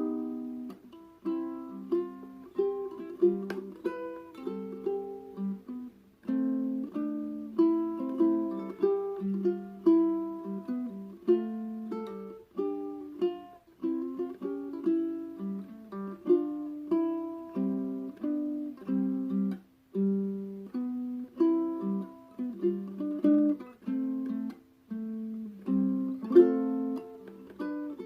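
Solo ukulele played fingerstyle: a plucked melody over accompanying notes, each note struck sharply and then dying away. The notes flow on in an even rhythm, all in the instrument's high, narrow range with no bass beneath.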